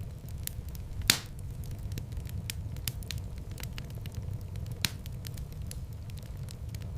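Wood fire in a fireplace crackling, with many small snaps over a steady low rumble of flame. A loud sharp pop comes about a second in and another about two-thirds of the way through.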